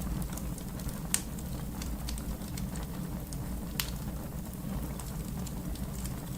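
Wood fire crackling: a steady low rumble of flames with many small snaps and pops, and two louder sharp pops, one about a second in and one a little past the middle.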